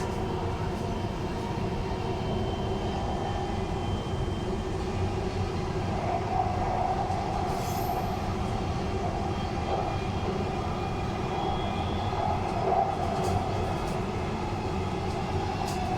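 Dubai Metro train running between stations, heard from inside the carriage: a steady rumble of the wheels on the rails with faint steady whining tones over it.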